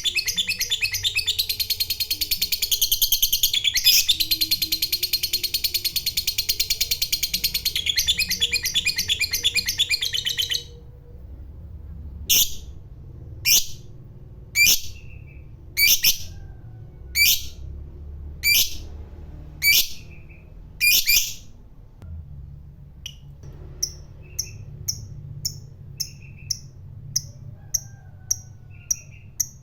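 Lovebird giving a long, rapid chattering trill (ngekek panjang) for about ten seconds. It then breaks into about nine single sharp calls, roughly a second apart, followed by a run of short, quieter chirps at about two a second.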